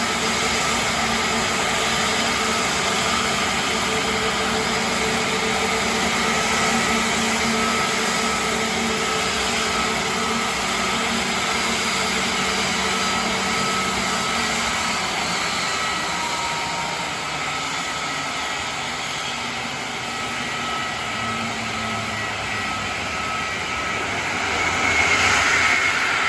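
Airbus A320neo jet airliner's CFM LEAP-1A turbofan engines running steadily: an even rushing noise with several steady whining tones. The lower hum tones fade out about halfway through, and the rush swells louder near the end.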